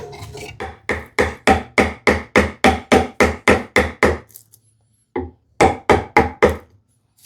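Mallet striking a chisel into sapele in a fast, even run of sharp knocks, about three a second. The run pauses briefly after about four seconds, then a few more strikes follow.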